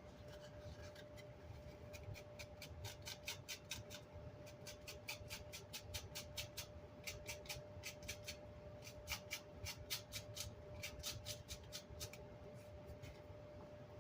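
Quick runs of short scratching strokes, about four or five a second in several bursts, as chipboard and glue remnants are scraped off the back of an amplifier's grill cloth. A faint steady tone sounds underneath.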